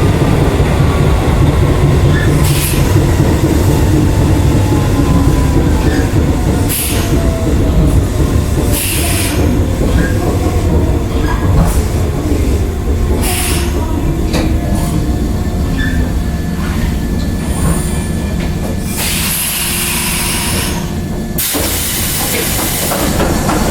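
Hokuso 7260-series resistance-control electric train slowing down: its traction motor whine falls steadily in pitch over heavy wheel and track noise as the train brakes into the station. Near the end come two long bursts of air hiss.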